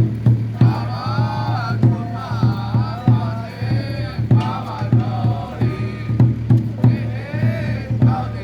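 Ritual chanting from Taiwanese Xiaofa ritual masters, melodic phrases over a steady percussion beat of about three strikes a second.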